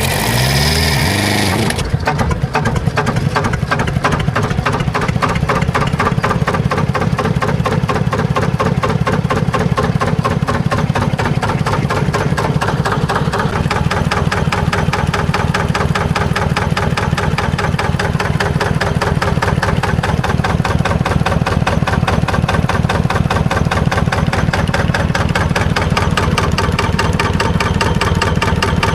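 Gleniffer DB2 marine diesel engine being turned over by its starter with the valves lifted, then catching about two seconds in once the valves are closed. It runs steadily for the rest of the time, with an even knock from its firing strokes.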